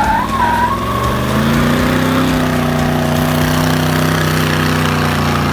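Car engine revved up about a second in and held at a steady high rpm, then let go at the end.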